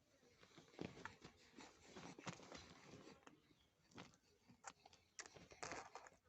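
Faint baby mouth noises: soft smacking and clicking in short, irregular bursts.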